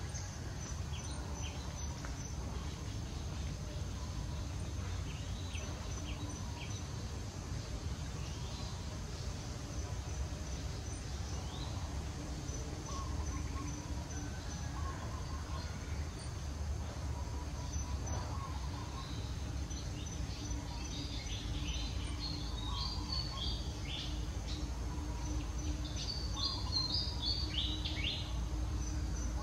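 Steady outdoor background rumble with a faint, steady high buzz. Short, high bird chirps come in bursts about two-thirds of the way in and again near the end.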